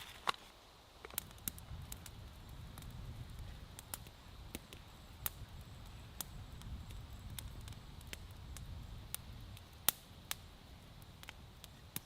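Campfire crackling, with irregular sharp pops over a low rumble.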